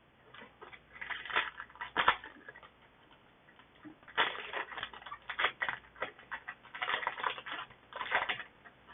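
Foil booster pack wrapper crinkling and tearing as a trading card pack is handled and opened, in irregular crackly bursts: a short spell about a second in, then a longer, denser stretch from about four seconds in.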